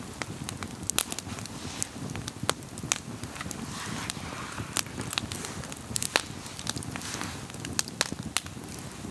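Wood campfire crackling, with irregular sharp pops and snaps over a low steady rush of the flames.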